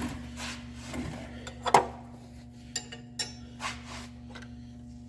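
Clinks, knocks and rubbing of metal tools and parts being handled, the sharpest knock a little under two seconds in, over a steady low hum.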